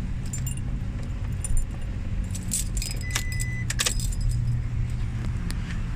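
Car keys jangling and clicking inside a car cabin, busiest in the middle, with a short high beep about three seconds in, over a steady low rumble.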